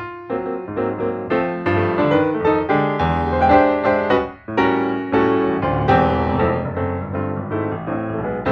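Background music: piano playing a busy melody of many quick notes, with a short dip about four seconds in.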